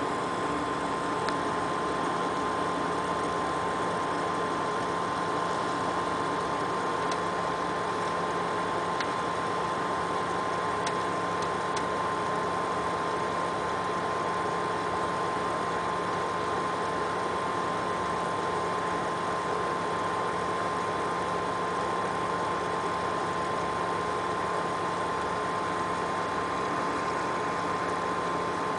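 XSPC water-cooling pump running with a steady high-pitched whine over a lower hum. This is the weird pump noise that came from the pump's tubes being connected to the wrong ports.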